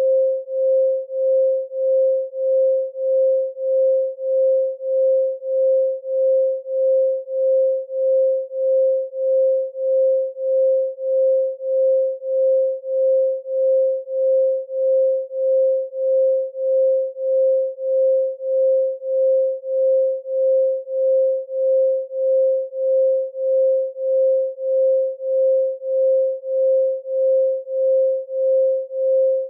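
Electronically generated 528 Hz pure sine tone, the solfeggio frequency, held at one pitch and pulsing evenly in loudness about three times every two seconds.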